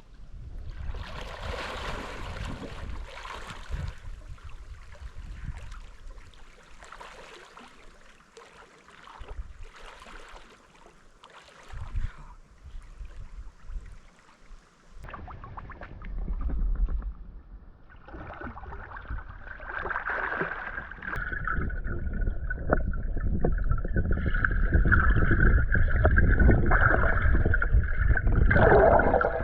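Bare feet squelching and splashing through mud and shallow water, with uneven sloshing that grows louder and more continuous in the second half.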